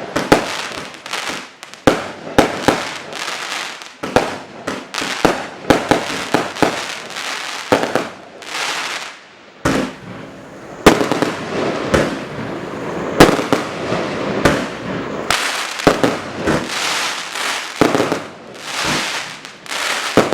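A consumer fireworks cake firing its shots: a fast, irregular string of sharp bangs, several a second at times, each trailed by a fading hiss.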